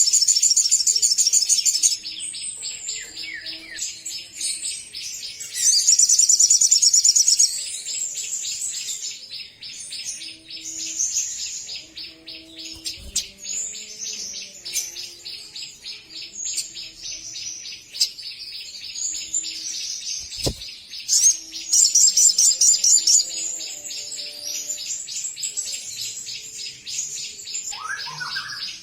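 Crimson sunbird singing without pause: a long run of rapid, high-pitched chattering trills, louder near the start, around six seconds in and again about twenty-two seconds in. A single brief thump about twenty seconds in.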